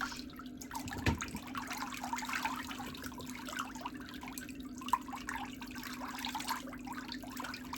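Water trickling and dripping over a steady low hum, with a couple of sharp ticks.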